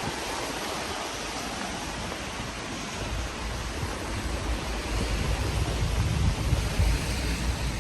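Steady hiss of heavy rain falling, with a low rumble that joins about three seconds in.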